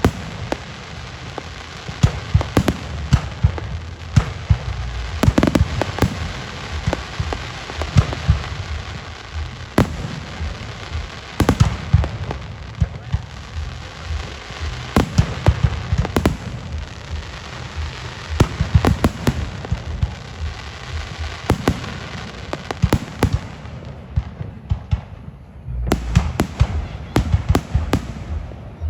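Aerial fireworks display going off continuously: many sharp bangs in quick succession over a steady crackle, with one heavy low bang near the end.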